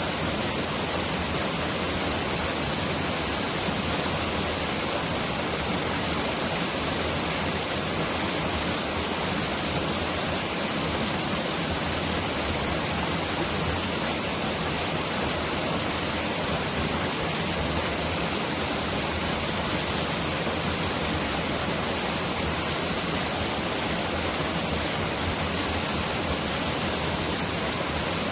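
Mountain valley stream flowing, a steady, even water noise that sounds like pouring rain.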